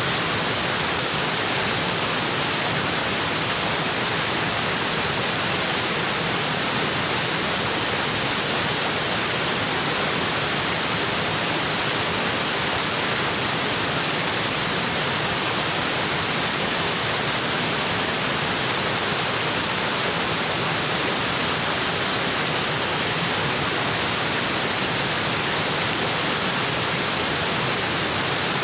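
Waterfall in a tropical forest, water falling onto rocks in a steady, unbroken rush.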